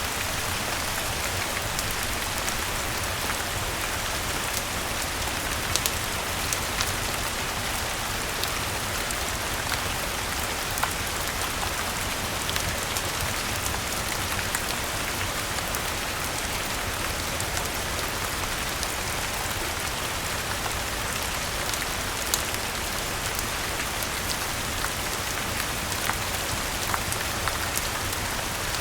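Steady rain falling, an even hiss with a low rumble beneath, with scattered sharp ticks and crackles from a fireplace mixed in.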